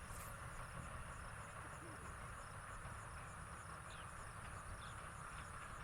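Faint outdoor ambience of insects chirping in a steady, even high pulse, over a low rumble.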